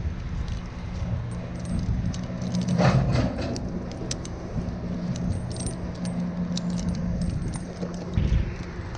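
Metal climbing gear clinking and jangling in many short, irregular clicks over a steady low engine hum, with a brief louder rush about three seconds in.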